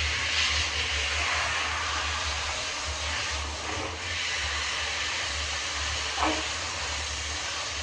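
Steady hiss of running water from a bath tap or shower, rinsing the soap off a dog, over a low hum.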